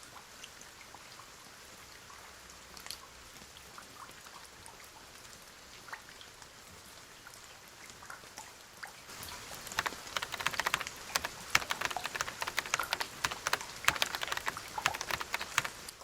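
Soft steady rain with scattered drips, then from about nine seconds in a louder, dense crackling rustle of hands working in potting soil.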